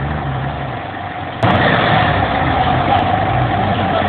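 A vehicle engine running, its pitch wavering slowly. About a second and a half in, the sound jumps abruptly louder to another engine sound with a steady whine.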